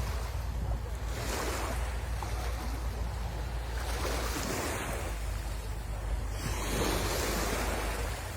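Sea waves washing up on the shore in repeated surges, with a steady low rumble of wind on the microphone underneath.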